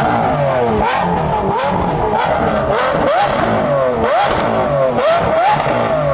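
Lamborghini Aventador SVJ's V12 engine being revved in quick blips, about one every second or less, each a sharp rise in pitch and a slower fall back.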